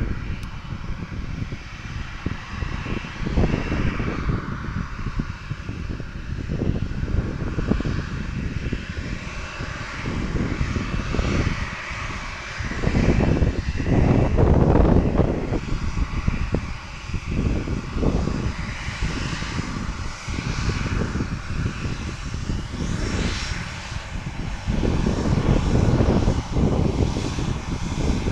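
CFM56-7B turbofan engines of a Boeing 737-800 running, a steady whine over an uneven low rumble that swells and fades, loudest about halfway through and again near the end.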